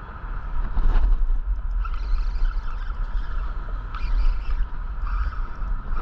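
Wind buffeting the microphone, a heavy low rumble, under a steady faint whine and brief patches of hiss.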